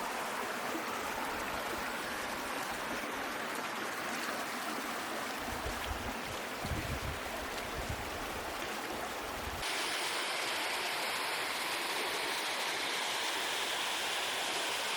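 Steady rushing of flowing water from a creek and waterfall. About ten seconds in, it abruptly turns louder and brighter.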